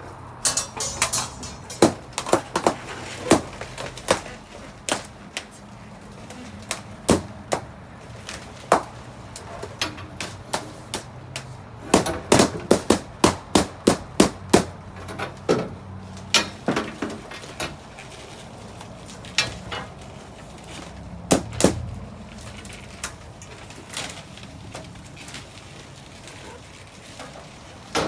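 Balloons being popped one after another: many sharp pops, sometimes several in quick succession, with the densest run about twelve to fifteen seconds in, over a steady low hum.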